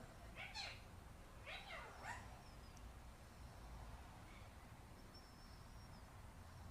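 Indian ringneck parakeet giving two short calls that rise and fall in pitch, about half a second and a second and a half in, then a faint thin whistle around five seconds in.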